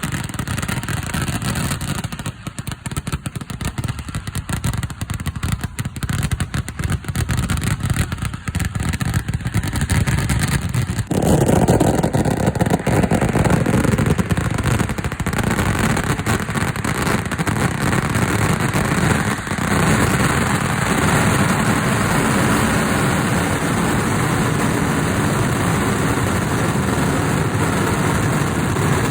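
A fireworks barrage of rapid, continuous firecracker blasts, the reports running together into a roll. About eleven seconds in it turns denser and louder and stays that way.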